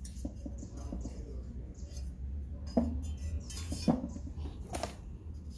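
Hard objects clinking and knocking as they are handled, with two louder knocks about three and four seconds in, over a low steady hum.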